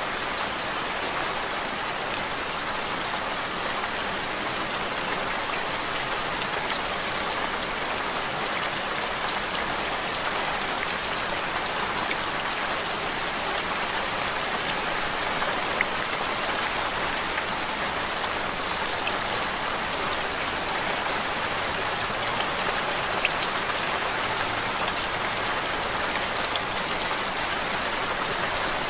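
Steady rain-like noise played as background white noise: an even hiss with faint, scattered drop-like ticks and no change throughout.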